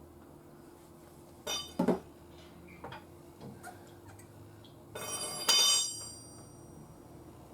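Metal clinking and clanking: a couple of sharp knocks about a second and a half in, a few lighter taps, then a louder metallic clatter about five seconds in that rings on briefly.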